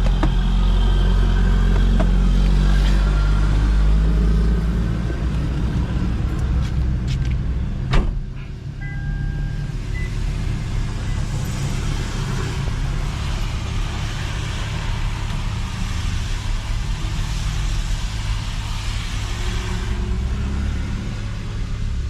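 Toyota Mark X V6 with a modified exhaust, running as the car drives, a steady low rumble that is heaviest for the first few seconds and then eases. A single sharp knock about eight seconds in.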